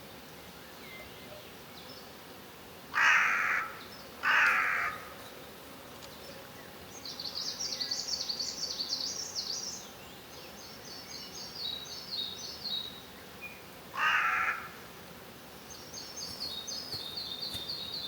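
Wild birds calling: three loud calls, two close together about three seconds in and a third about fourteen seconds in. A smaller bird's high trilling song repeats between them.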